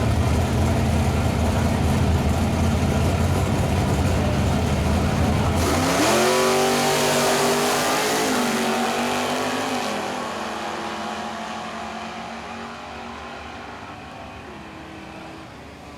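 The 409 V8 of a 1962 Chevrolet Bel Air drag car runs low and loud, then launches about six seconds in. The engine revs up hard, drops in pitch once at a gear shift, and fades as the car pulls away down the strip.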